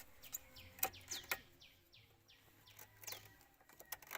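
Small birds chirping over and over in short, high, falling notes, with a few sharp knocks in between.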